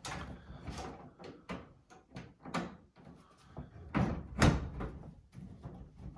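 Irregular knocks, clicks and scrapes of a dryer's metal panels and parts being handled and fitted during repair, with the loudest clunks about four seconds in.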